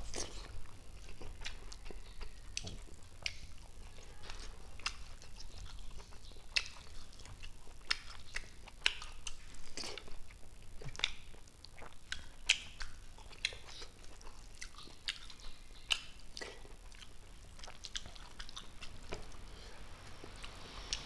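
Close-miked chewing and lip-smacking of a person eating rice with his fingers: irregular wet mouth clicks and smacks, several a second, over a faint low room hum.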